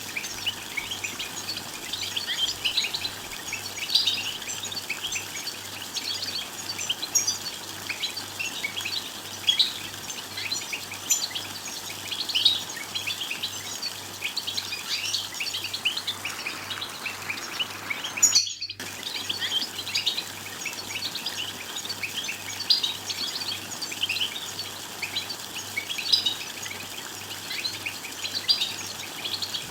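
A flock of European goldfinches twittering and chattering, dense rapid high chirps with no pause, broken once by a brief gap of silence about two-thirds through.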